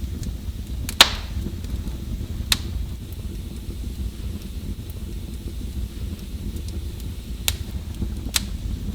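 Wood fire burning in a fireplace: a steady low rumble of the flames with sharp crackles and pops, the loudest about a second in and others near the middle and twice near the end.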